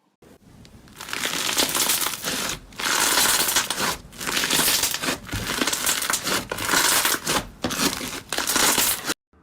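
Slime being squeezed and pressed by hand, giving a dense crackling, crinkling sound in repeated presses with brief pauses between them; it cuts off suddenly near the end.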